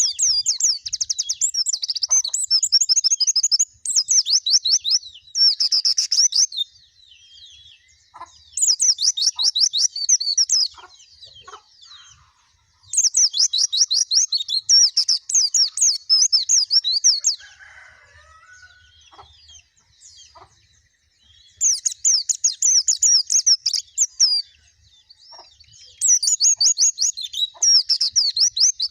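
Pleci (white-eye) in full song: about seven bouts of rapid, high-pitched twittering, each lasting one to four seconds, with short pauses between.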